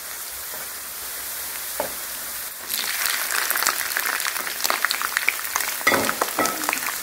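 Gambas al ajillo frying in olive oil in a pan, turning golden. The sizzle jumps louder and crackles about two and a half seconds in, with a brief knock near six seconds.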